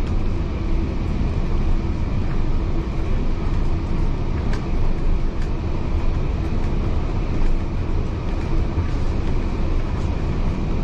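Heritage railway carriage running along the track, a steady low rumble heard from inside the carriage, with a couple of faint clicks from the wheels and running gear.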